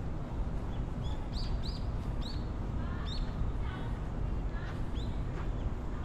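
Small birds chirping: a scattered series of short, high, downward-sweeping chirps over a steady low background rumble.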